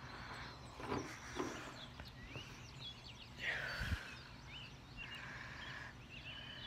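Several birds chirping and calling at daybreak, short repeated chirps over a quiet rural background, with one louder call about three and a half seconds in. A low thump follows just after it.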